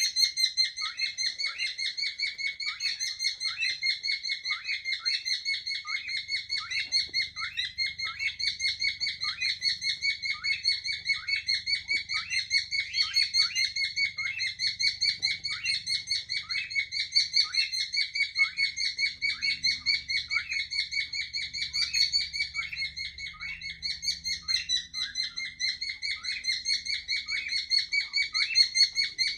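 Cockatiels chirping in a long, unbroken run of rapid, evenly repeated calls, several a second, at one steady pitch.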